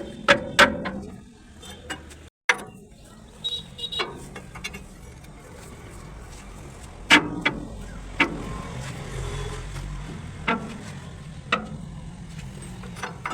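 Hand tools working on a truck's pin and bush: irregular sharp knocks and clinks, about a dozen, over a steady low hum.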